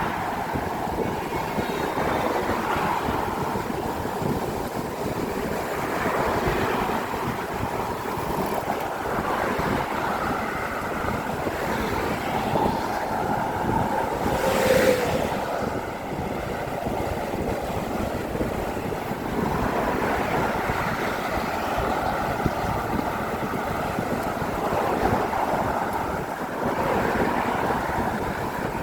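Steady traffic noise from cars crossing a road bridge, swelling as single vehicles pass every few seconds, with one brief louder pass about halfway through.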